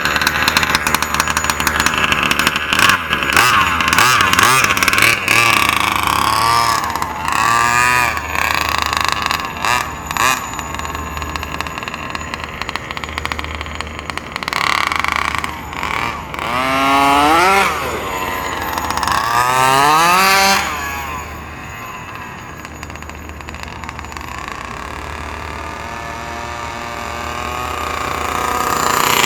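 Small two-stroke petrol engine of an HPI Baja 5B RC car, fitted with a new 990 carburettor, running and revved in several rising blips. It drops to a quieter steady run about two-thirds through, then builds again near the end.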